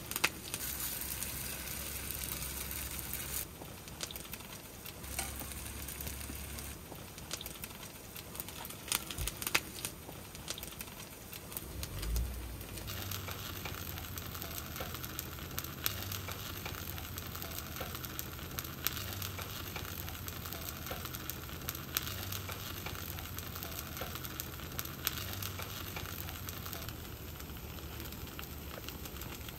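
Kimchi pancake batter frying in oil in a nonstick frying pan: a steady sizzle with scattered small pops.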